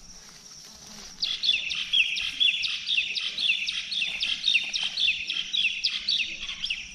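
A bird calling in a fast run of short chirps, starting about a second in and going on for several seconds. Under it runs a steady high-pitched whine.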